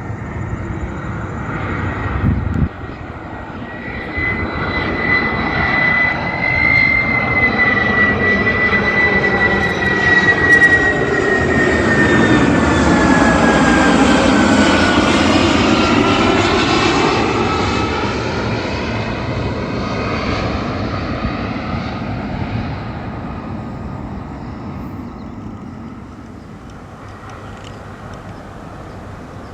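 Boeing 767-300 freighter's twin turbofan engines passing by on landing: a jet roar with a high whine that grows to a peak about halfway, the whine dropping in pitch as the aircraft goes past, then fading away.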